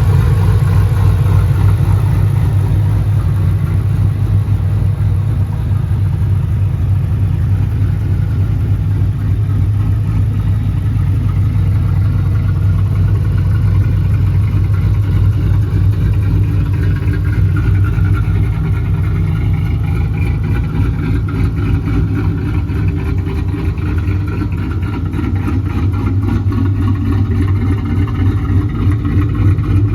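Modified 2007 Ford Mustang GT's 4.6-litre three-valve V8 with aftermarket cams, idling steadily through its exhaust with a choppy, lumpy lope.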